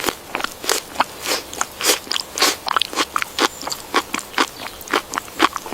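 A Samoyed dog chewing food with quick, irregular crunches, several a second.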